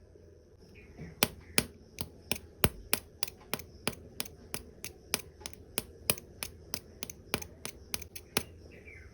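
A run of sharp clicks, about three a second for some seven seconds, over a low steady hum.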